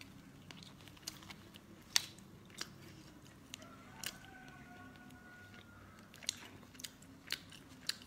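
Close-up eating sounds of a person chewing seafood, with scattered sharp clicks and smacks of the mouth and chopsticks.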